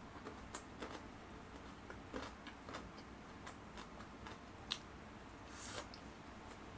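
Close-miked mouth chewing a soft rice-and-seaweed kimbap, giving faint, irregular wet clicks and smacks, with one sharper click a little before the end.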